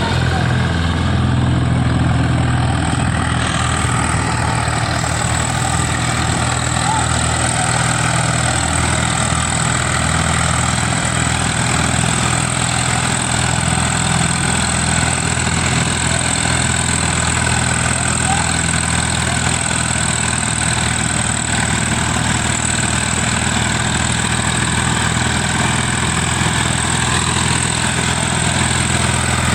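Tractor engine running steadily at a constant speed, with a low even drone.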